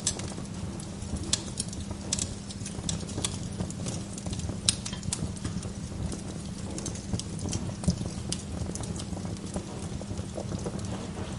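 Wood fire burning in a fireplace: irregular sharp crackles and pops from the burning logs over a steady low rumble of the flames, with a couple of louder pops about five and eight seconds in.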